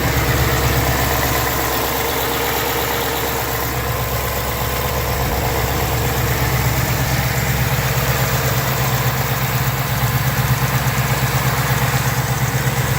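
2019 Ford Mustang GT's 5.0-litre V8 idling steadily, with a very faint tick: the 'typewriter' tick these engines are known for, which on this car comes on at startup and goes away as it warms up.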